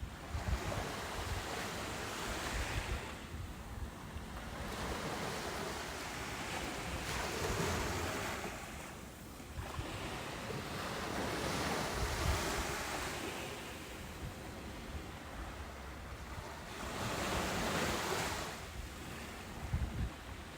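Ocean surf breaking and washing up a beach: a steady rushing noise that swells and ebbs about four times, roughly every five seconds.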